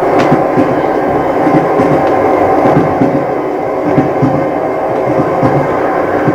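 A train running on rails: a loud steady rumble with repeated knocks, starting abruptly.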